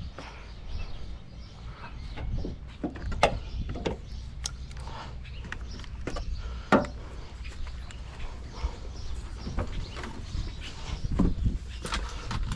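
Scattered clicks and knocks from hands working at wiring and parts on a truck, with a steady low rumble underneath; the sharpest knocks come about three and about seven seconds in.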